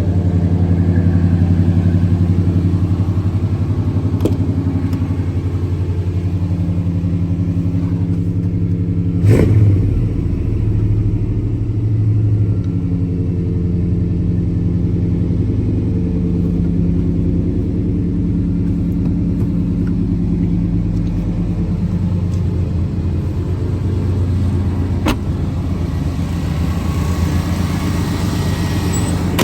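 1993 Chevrolet 1500 pickup's engine idling steadily shortly after a cold start. A sharp knock comes about nine seconds in and a lighter click later on.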